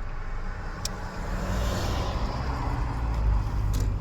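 Interior cabin noise of a 2014 Nissan on the move: a steady low rumble of tyres and engine, getting slightly louder partway through, with two light clicks about a second in and near the end.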